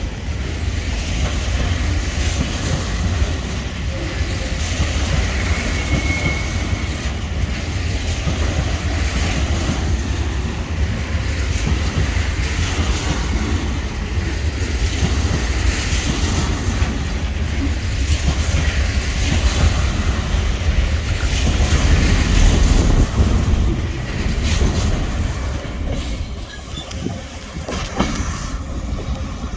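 Long, mostly empty container freight train rolling past, its steel wheels rumbling and clacking over the rail joints with some wheel squeal. Its wheel flats give a repeated thump. The noise swells about two-thirds of the way in, then eases as the train clears near the end.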